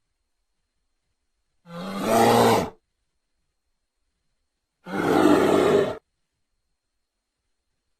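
Two separate creature roars, sound effects made for a fictional giant prehistoric bear. Each lasts about a second, with dead silence between them.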